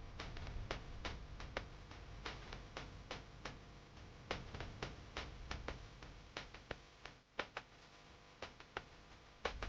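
Sharp ticks at uneven spacing, two or three a second, over a faint low rumble.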